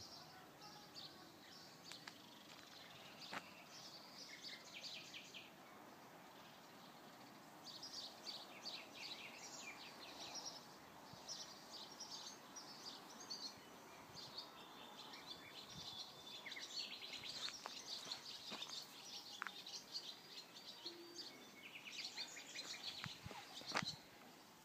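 Small birds chirping in quick repeated trills, faint over a steady outdoor hiss, with a few scattered clicks and one sharper knock near the end.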